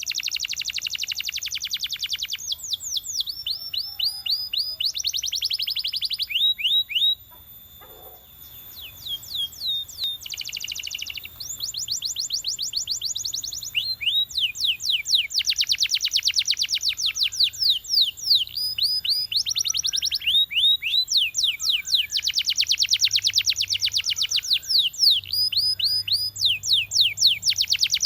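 Belgian canary singing: long trills of fast repeated rising sweeps and rapid rolling notes, high in pitch, one phrase after another, with a short pause about seven seconds in.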